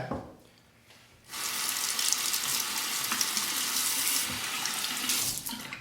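Water running steadily from a bathroom sink tap for a quick rinse between shaving passes, starting about a second in and easing off near the end.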